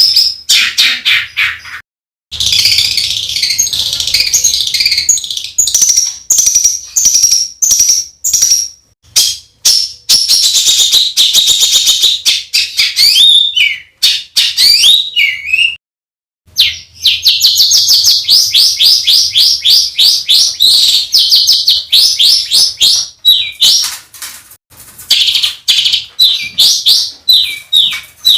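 Songbird tutor recording of harsh, rapid bursts of repeated notes ('tembakan kasar'): dense fast trills and chatter, loud and high-pitched, the kind of rough rapid-fire material used to teach contest songbirds. The song breaks off briefly about two seconds in and again about sixteen seconds in.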